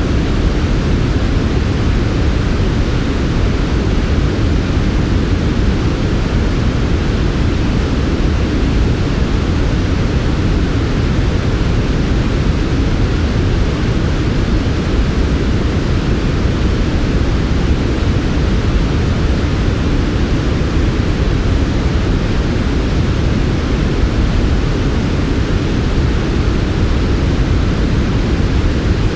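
Steady, smooth generated noise sold as white noise for sleep, weighted toward the low end, with no change in level or character throughout.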